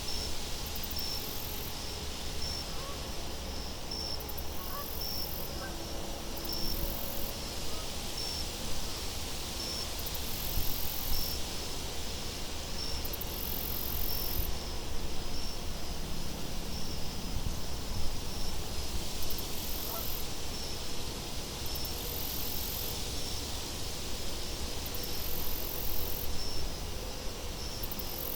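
Steady wind ambience with a low rumble, under crickets chirping about once a second in a high pitch.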